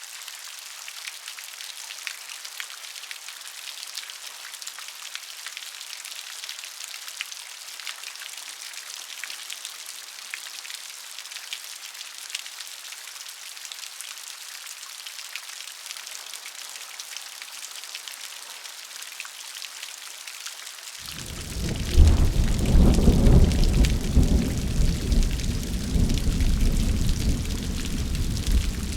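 Steady rain, an even hiss with the fine patter of drops. About three quarters of the way through, a long, loud rumble of thunder sets in suddenly and keeps rolling under the rain.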